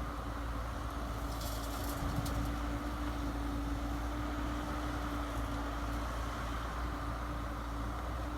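Radio-controlled model truck running: a steady engine-like hum with one constant tone over a low rumble. A few faint clicks come about one and a half to two and a half seconds in.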